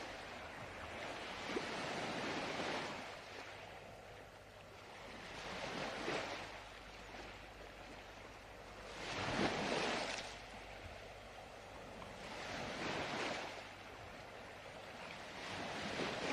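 Ocean surf: waves washing in and drawing back, a swell of rushing noise every three to four seconds, the strongest about halfway through.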